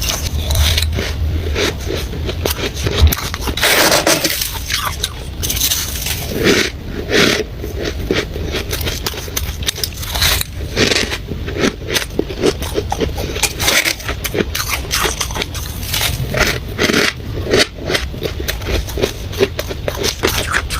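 Freezer frost ice being bitten and chewed: a dense run of dry, squeaky crunching with many rapid cracks, irregular and without pause.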